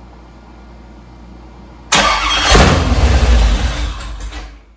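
A 395 cubic inch low-compression engine on an engine dyno firing up on its new EFI test rig: about two seconds in it bursts into loud running with a little throttle for just under three seconds, then cuts off suddenly.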